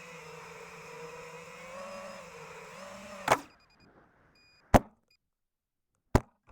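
GEPRC Crocodile Baby FPV quadcopter's brushless motors and propellers whining steadily with a wavering pitch, ended a little over three seconds in by a sharp, loud crash impact. After it the motors are silent, and two more sharp clicks follow about a second and a half apart.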